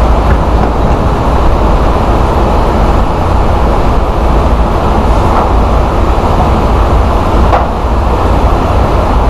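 Steady, loud road and engine rumble inside a semi-truck's cab cruising at highway speed, heaviest in the low end.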